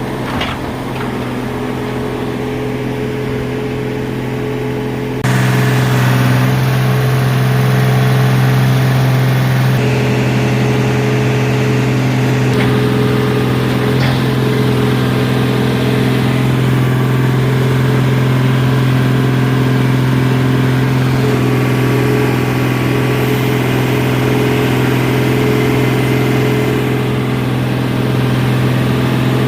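Heavy equipment engine running steadily with a low hum, stepping up suddenly in loudness about five seconds in.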